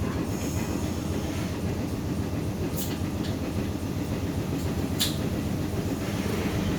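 St. Charles line streetcar rolling along its rails, heard from on board: a steady low rumble of wheels and running gear, with two sharp clacks, one nearly three seconds in and one about five seconds in.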